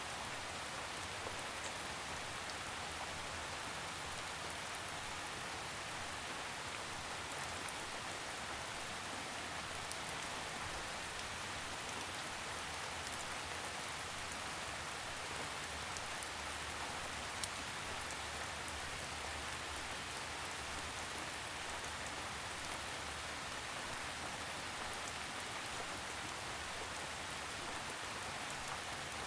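Steady rainfall pattering on leaves and the forest floor, with scattered individual drops ticking through it.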